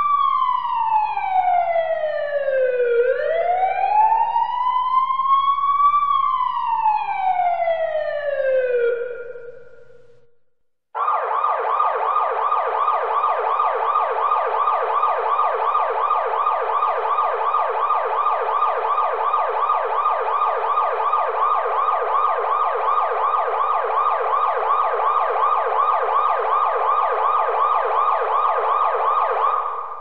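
Electronic emergency-vehicle siren in wail mode: slow sweeps falling and rising in pitch, about three seconds each way, fading out about ten seconds in. After a brief silence a siren in fast yelp mode starts, with rapid sweeps repeated several times a second, holding steady until it fades near the end.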